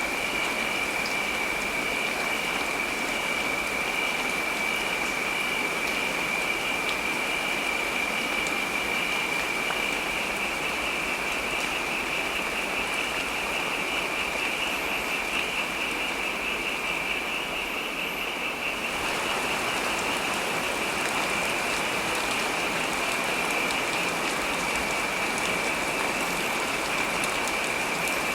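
Heavy rain falling steadily, an even hiss of water with a thin, steady high-pitched tone running under it. The texture of the rain shifts slightly about two-thirds of the way through.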